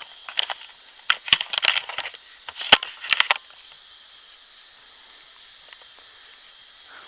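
A quick run of sharp clicks and taps in the first three seconds or so, over a steady high chorus of crickets or other night insects with a faint pulse repeating about twice a second.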